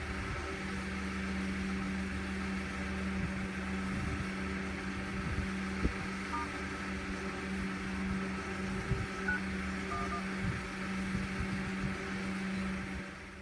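Steady electrical hum with a few faint short beeps and light clicks.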